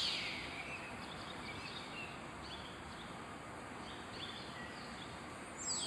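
Birds chirping over a faint steady background hiss: a few short high chirps, and quick descending calls at the start and again at the end.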